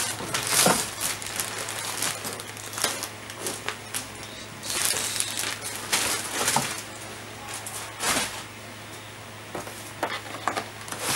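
Handling noise from an unboxing: irregular rustling and crinkling of packaging with scattered clicks and knocks, over a steady low hum.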